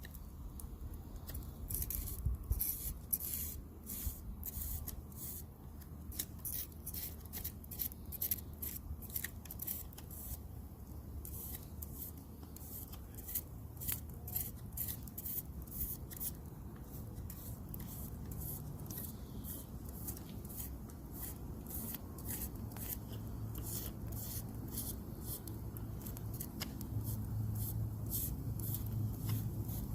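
Knife shaving wood in quick, short strokes, about two to three a second, as a spoon is carved; the strokes thin out in the second half while a low rumble grows underneath.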